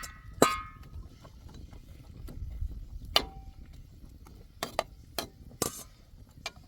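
Kitchen utensils and dishes being handled: a ringing metallic clink about half a second in, then scattered light clicks and knocks.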